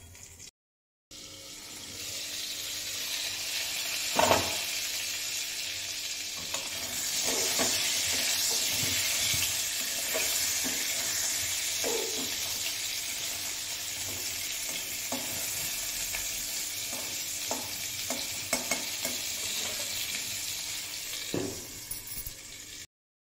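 Stuffed parwal (pointed gourds) frying in mustard oil in an aluminium kadhai: a steady sizzle, with a scatter of short knocks and scrapes as a spatula turns them against the pan, the loudest about four seconds in.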